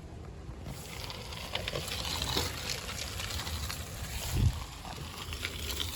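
Footsteps of several people crunching on a leaf-littered, granular trail surface, starting about a second in, with low wind rumble on the microphone and one low thump midway.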